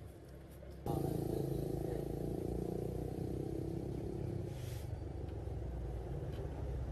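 An engine running steadily, starting abruptly about a second in, with a brief hiss about two-thirds of the way through.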